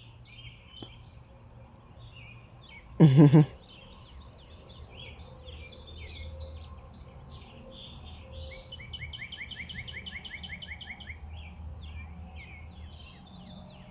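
Songbirds chirping throughout, one giving a fast trill of evenly repeated notes for a couple of seconds about nine seconds in. A short, loud voice sound breaks in about three seconds in.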